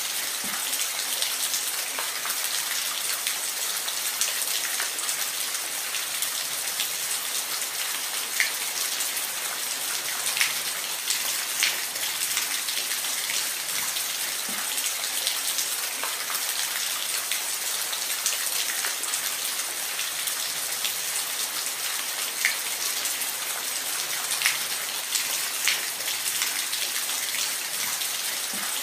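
Waterfall: a steady, even rush of falling water with scattered sharper splashes.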